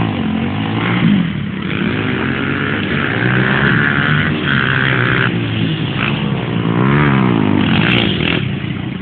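Dirt bike engine revving up and down over and over as it is ridden, the pitch climbing and dropping several times.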